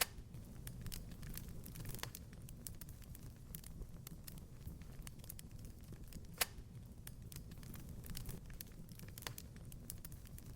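Wood fire crackling in a fireplace: a steady low rumble of the flames under frequent small crackles, with two louder pops, one at the very start and one about six seconds in.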